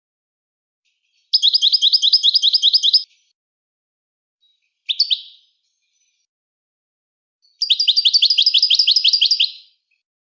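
Bird-like chirping: two phrases of rapid, identical rising chirps, about five a second and each lasting about two seconds, with a single short chirp between them.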